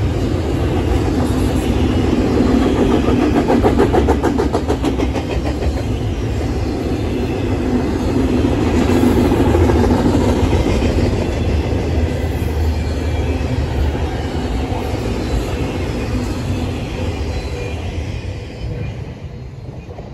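Doublestack intermodal well cars of a long freight train rolling past: a steady rumble and clatter of steel wheels on the rails, with a patch of rapid clicking a few seconds in. The sound fades away near the end as the last car passes.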